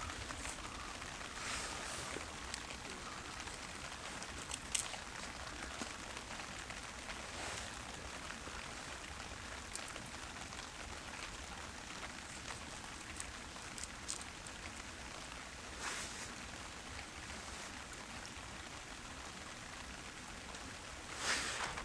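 Steady rain falling, with a few louder drips now and then.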